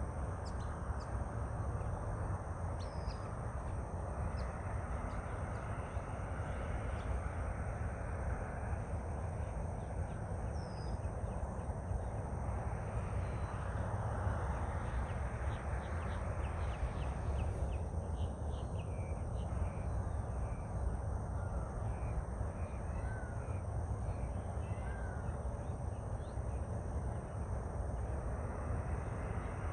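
Birds calling outdoors at dawn, including a run of repeated crow caws in the second half, over a steady low rumble.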